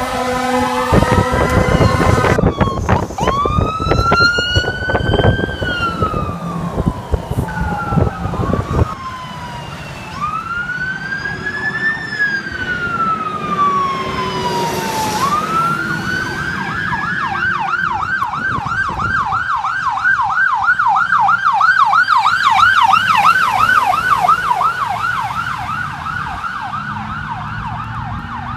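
Fire apparatus electronic sirens going by. First come slow wails that rise and fall over a few seconds, with a heavy low rumble under the first few seconds. About halfway in, a wail winds up into a fast yelp of about three cycles a second that keeps going.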